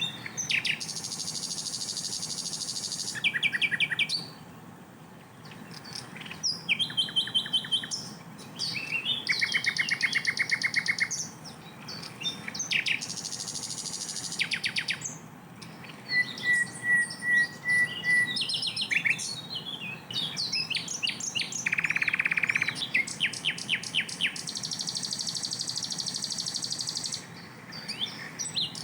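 Sikatan londo flycatcher singing a loud, varied song of fast repeated notes and rapid trills, the 'tembakan' bursts, in short phrases broken by brief pauses.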